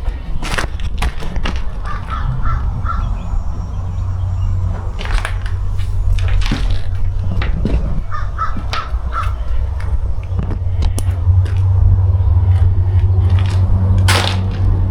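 Crows cawing in runs of about four short calls, three times over, under a steady low hum, with scattered sharp clicks and crunches.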